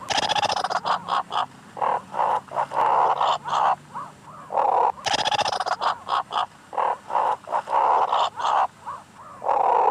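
Meerkat calls: a long string of short, harsh chirping barks, some in quick runs and a few drawn out a little longer.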